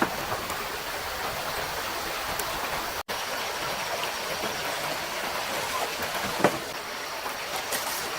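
Mountain stream running steadily over rocks, a continuous rushing and babbling. A single short knock sounds about six and a half seconds in, and the audio drops out for an instant at about three seconds.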